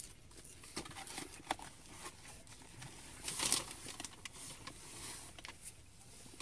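Quiet chewing of beer cheese curly fries, with small scattered mouth clicks and smacks and a brief rustle about three and a half seconds in.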